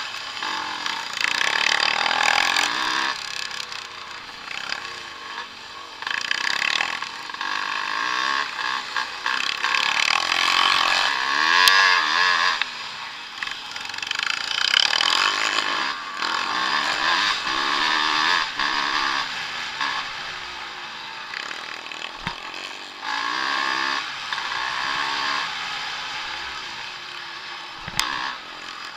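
Vintage motocross motorcycles racing on the track, engines revving hard and dropping off in turn, so the sound swells and fades again and again as bikes come and go.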